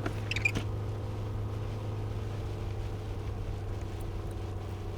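Car engine running steadily with road noise, heard from inside the cabin while driving slowly on a snowy motorway; a brief sharp, high-pitched sound about half a second in.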